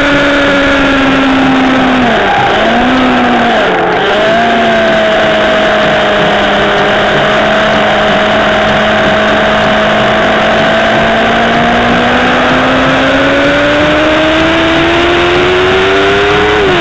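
Kawasaki ZX-10R's inline-four engine at speed on track, under heavy wind rush: the engine pitch dips and jumps a few times about two to four seconds in, then holds steady and slowly rises through a long corner, with a sharp drop near the end as a gear change.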